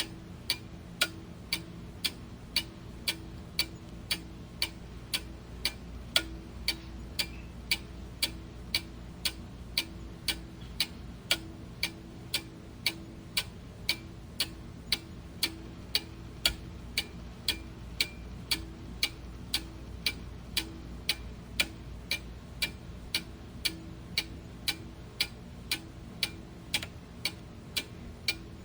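A clock ticking steadily, about two ticks a second, over a faint low hum.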